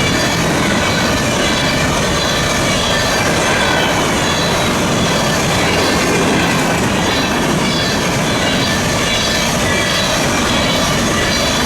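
A CSX freight train rolling steadily past, steel wheels clacking over the rail joints with a thin high wheel squeal running over the rumble.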